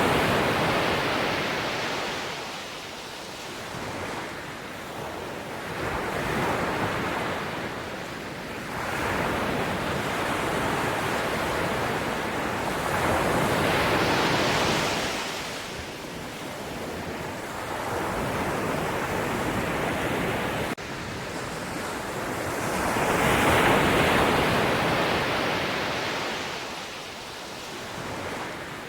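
Sea waves breaking and washing in, a steady rushing that swells and falls back every five to ten seconds.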